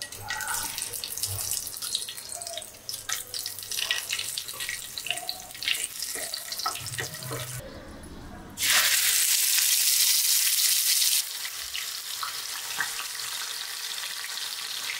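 Whole spices, among them cinnamon and bay leaves, crackling and popping in hot oil in a nonstick pan. About eight and a half seconds in, a wet ground masala paste hits the oil with a sudden loud hiss that eases after a couple of seconds into a steady sizzle.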